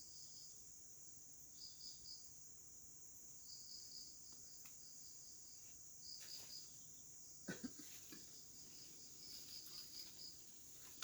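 Faint forest insects: a steady high-pitched buzz with runs of quick chirps just below it, as from crickets or cicadas. A few soft knocks or rustles come about six and seven and a half seconds in.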